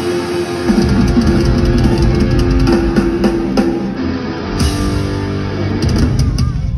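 A rock band playing live with guitars and a drum kit. The drums and bass come in heavily about a second in, and the music dies away near the end.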